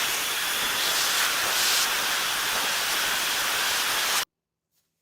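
Rizzdeek high-speed hair dryer with a brushless motor running, a steady loud rush of blown air that cuts off suddenly about four seconds in.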